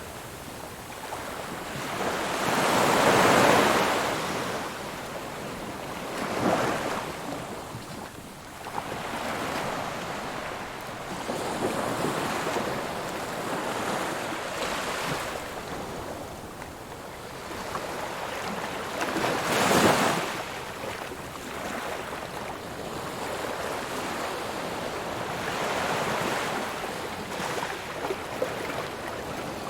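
Ocean waves breaking on a shore, a steady wash of surf with a big surge about three seconds in, a smaller one around six seconds, and another strong crash about two-thirds of the way through.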